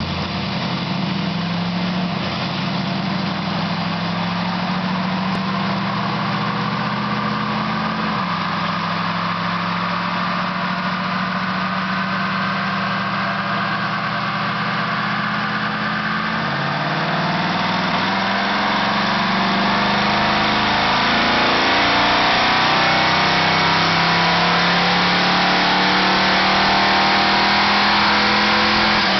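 Pontiac Super Duty 455 V8 running under load on a chassis dyno, its pitch climbing slowly and dropping back suddenly twice, then rising louder and holding steady at high revs near the end.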